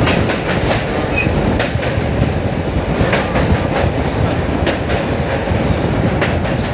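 Passenger train running at speed over a river bridge: a steady heavy rumble of wheels on rails with irregular sharp clicks from rail joints.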